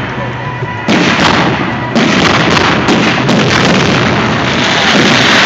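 Fireworks going off: a sudden loud burst about a second in and another at two seconds, then dense crackling that builds into a continuous loud barrage near the end. The display's music plays underneath.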